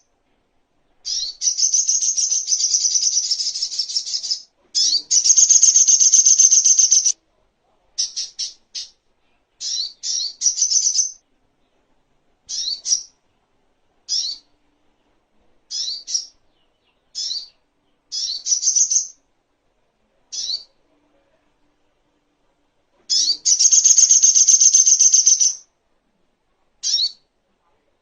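Sogok ontong (crimson sunbird) singing: high, rapid twittering trills of two or three seconds each, with short single chirps and silent gaps between them.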